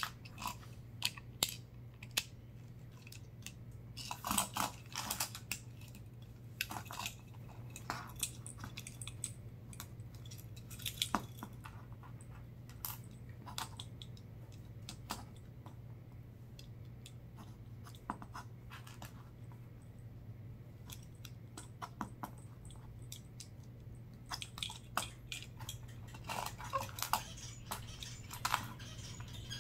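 Lego bricks and small plastic pieces being handled, with scattered sharp clicks and short bursts of rattling, over a steady low hum.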